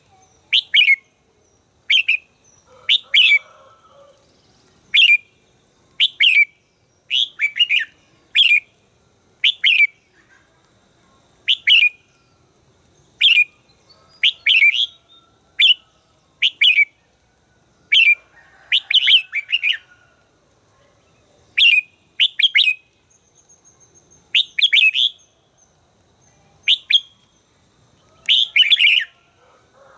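Red-whiskered bulbul giving short, sharp chirping notes, repeated about every second or so, sometimes in quick pairs or clusters.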